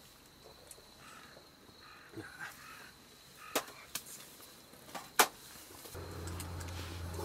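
Three sharp clicks or knocks over a quiet outdoor background, the loudest about five seconds in. A steady low hum comes in about six seconds in.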